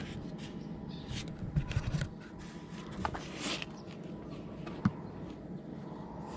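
Light scrapes, rustles and clicks of close handling, with a few low thuds about one and a half seconds in and a sharp knock near five seconds, over a faint steady hum.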